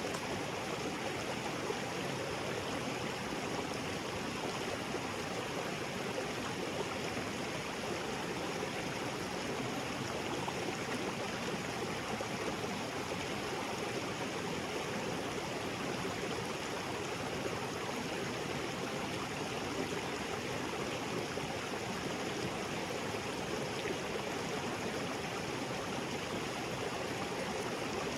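Small waterfall splashing into a rocky creek, a steady even rush of falling and flowing water.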